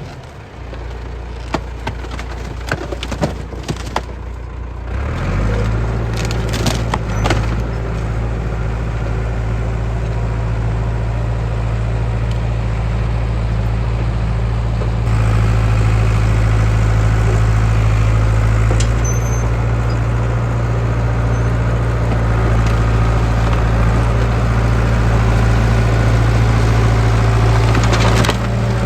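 John Deere 450B crawler bulldozer's engine running under throttle, getting louder about five seconds in and again around fifteen seconds as the dozer works. A few sharp cracks and snaps sound over the engine in the first few seconds.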